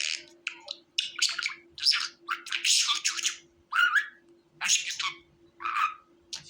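Budgerigars chattering in a quick string of short, high chirps and scratchy squawks, several a second with brief gaps, some of them rising whistled notes. A faint steady hum lies underneath.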